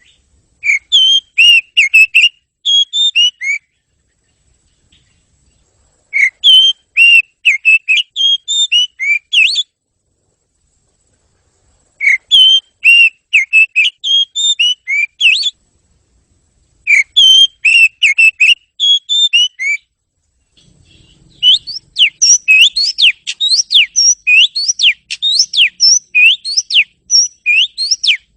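Oriental magpie-robin (kacer) singing: four bursts of quick, varied whistled phrases, each about three seconds long with pauses between. Near the end comes an unbroken run of rising whistled notes, about two a second.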